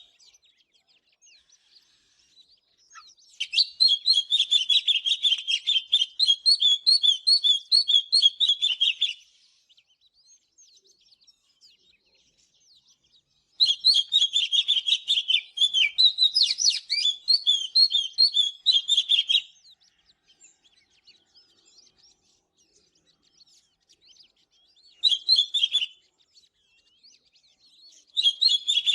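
Oriental magpie-robin singing in long runs of rapid, varied whistled notes. There are two phrases of about six seconds each, separated by pauses of several seconds, then a short burst, and another phrase begins near the end.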